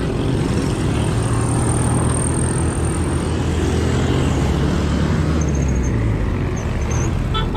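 A motor vehicle's engine running steadily with road and wind noise. A low hum holds fairly even, swelling slightly in the middle.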